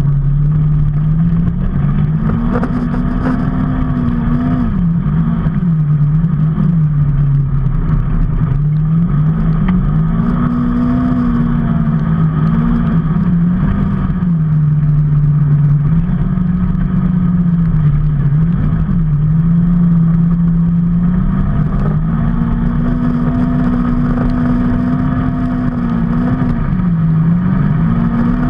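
A motor vehicle's engine running continuously, its pitch climbing and dropping again and again as it speeds up and slows down.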